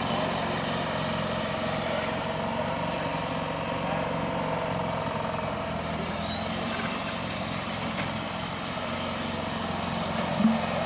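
Small lawn-tractor engine running steadily at an even speed, with a short louder blip near the end.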